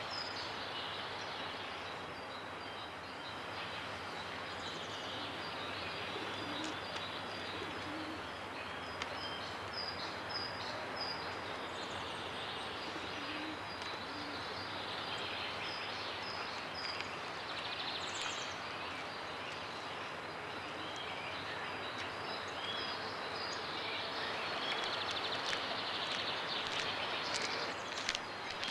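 Outdoor ambience of small birds calling, one repeating a short high chirp over and over, over a steady background rush. A few crisp footsteps come in near the end.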